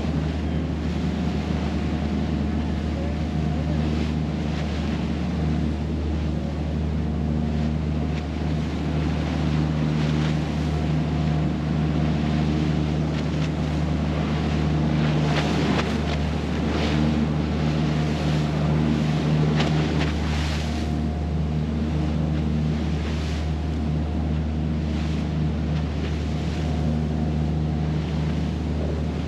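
Motorboat engine running steadily with water rushing and splashing along the hull and wind buffeting the microphone; the splashing and wind swell for several seconds in the middle.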